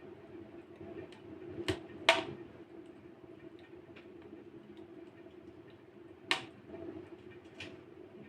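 Wood fire burning in a fireplace, crackling with scattered small ticks and a few sharp pops, the loudest about two seconds in, over a steady low hum.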